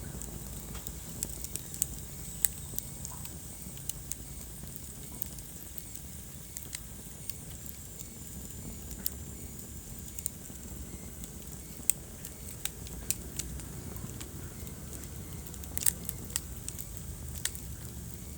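Wood fire burning in a fireplace: irregular sharp crackles and pops over a low, steady rumble of flames, with a short flurry of pops near the end.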